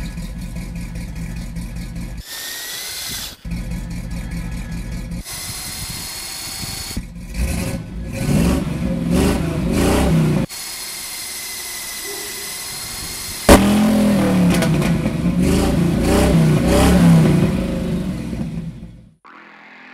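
Edited montage of car engine sounds: idling and revving clips cut together abruptly, with a sudden loud rev about two-thirds of the way through that rises and falls, then fades out near the end.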